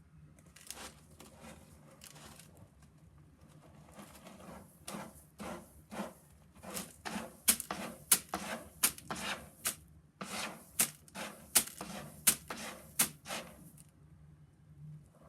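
An irregular series of sharp clicks or taps, two or three a second, with soft rustling between them; it stops about a second before the end.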